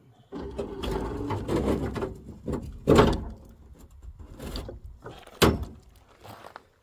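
Metal scraping, creaking and clunking as a Honda N600's engine and subframe are lowered out of the car, with two sharp knocks, about three seconds and five and a half seconds in.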